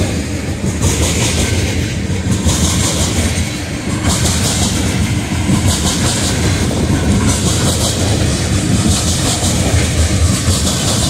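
Freight train of tank cars rolling past close by: a steady rumble with the steel wheels clattering and knocking on the rails.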